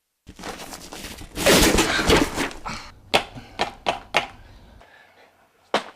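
A stretch of rustling, scraping noise, then a string of sharp knocks and thuds, four of them in quick succession and one more near the end.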